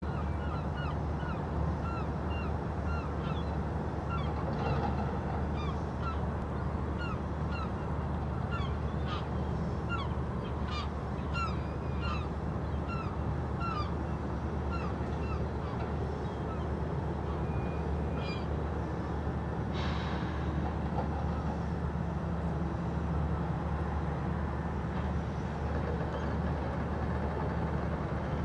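Short, clipped bird calls, one or two a second for the first half and sparser after, over a steady low rumble.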